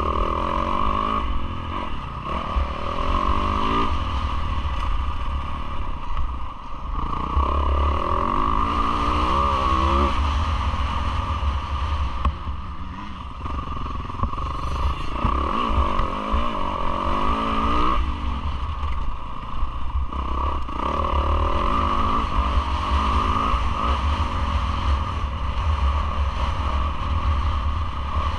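Yamaha YZ450F single-cylinder four-stroke motocross engine, heard onboard during a race: it revs up in long rising sweeps, drops back when the throttle is shut, and pulls again, over and over. Wind rumbles on the microphone throughout.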